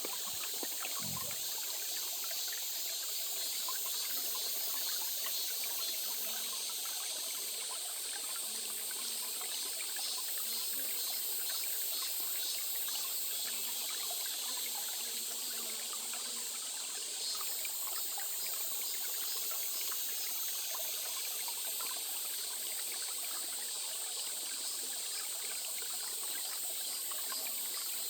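Stream water trickling and flowing steadily over stones, with a brief low bump about a second in.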